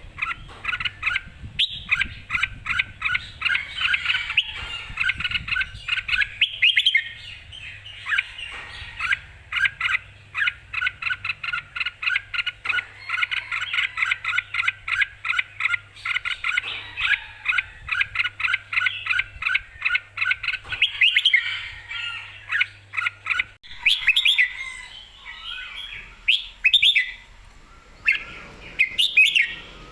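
Red-whiskered bulbul singing in rapid, continuous runs of short chirping notes, with louder, more broken phrases in the last few seconds.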